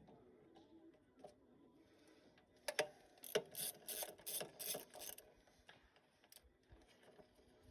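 Socket ratchet clicking in a quick run of strokes for about two and a half seconds, starting near the middle, as a nut holding down the air cleaner is run on.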